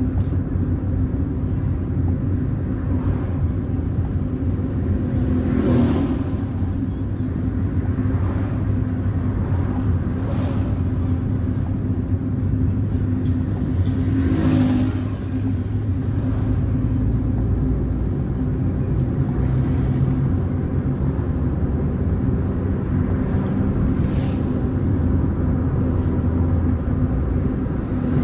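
A car driving along a road: steady engine and tyre rumble, with three brief louder hissing sweeps spread through it.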